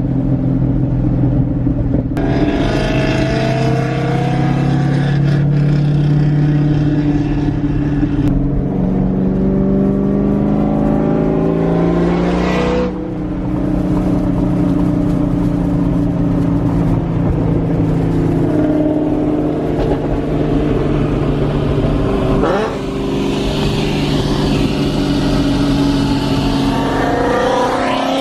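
A loud car engine and exhaust running at a steady cruise. The revs climb quickly and then drop sharply about 13 seconds in, rise again near 22 seconds, and climb once more at the very end.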